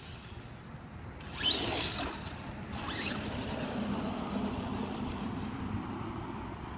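Electric motor of a radio-controlled truck whining up in two short bursts, about a second and a half and three seconds in, then running more steadily, as the stuck truck's wheels spin.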